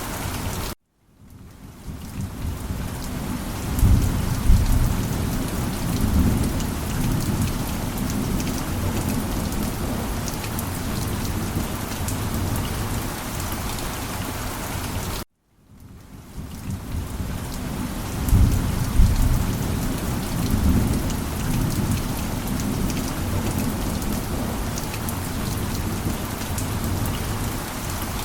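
Steady heavy rain pattering, with low rolling thunder rumbling twice, a few seconds after each restart. Twice the sound cuts to silence for a moment and fades back in, as a looped recording restarts.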